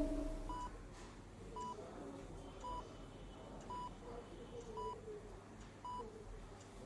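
A short, faint electronic beep repeating steadily about once a second, with faint wavering sounds beneath it.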